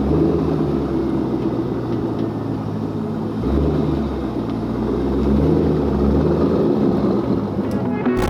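C5 Corvette V8 running through straight pipes after a muffler delete, a loud, low, steady exhaust note that shifts a few times in pitch and level.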